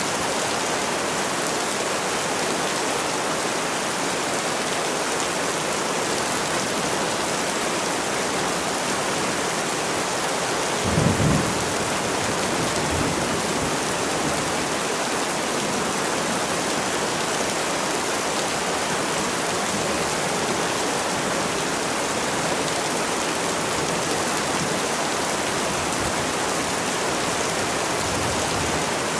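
Steady rain falling in a dense, even hiss, with a short low rumble of thunder about eleven seconds in and fainter rumbles after it.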